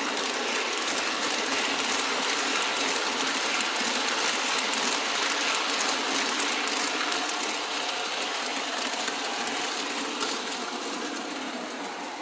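Model electric passenger trains running on layout track: a steady mechanical whir and rattle of motors and wheels on rail, fading a little near the end.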